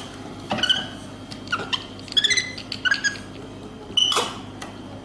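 A monkey giving short, high-pitched squeaks, about five in a row, some of them gliding in pitch, over a steady low hum.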